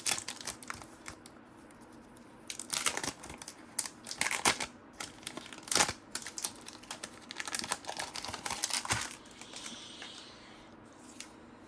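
Trading cards being flipped through and shuffled by hand: quick rustles and clicks of card stock sliding against card, in bunches for about nine seconds, then quieter.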